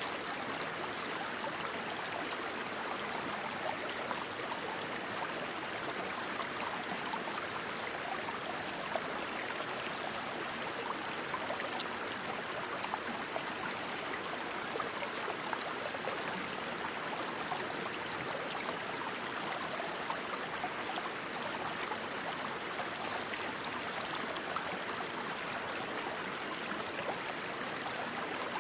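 Steady rushing stream water. Short high-pitched chirps recur over it, with two brief quick trills, one about two seconds in and one near the end.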